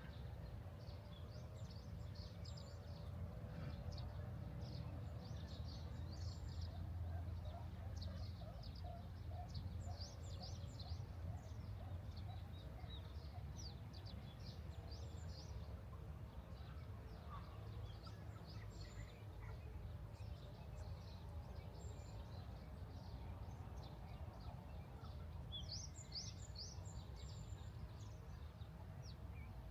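Small birds chirping and twittering in many short high calls throughout, over a steady low background rumble.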